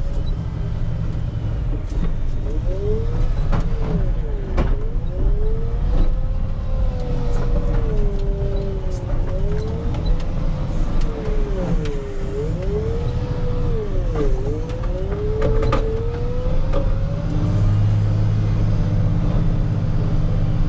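Rubber-tire wheel loader's diesel engine running under load while pushing snow, with a whine that rises and falls over and over for most of the stretch and a few short knocks. Near the end the engine settles into a steadier, louder note.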